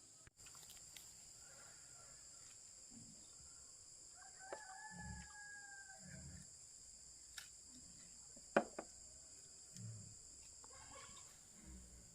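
Crickets keep up a steady high buzz while a rooster crows once about four and a half seconds in, a drawn-out, slightly falling call. A few sharp knocks and soft thuds come in the second half.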